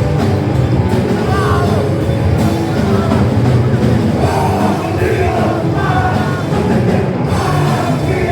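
Punk rock band playing loud and fast live, with a singer shouting from about a second in.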